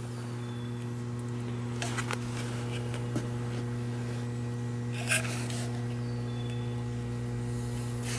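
Steady electrical hum, with a few faint clicks and light handling taps about two and five seconds in.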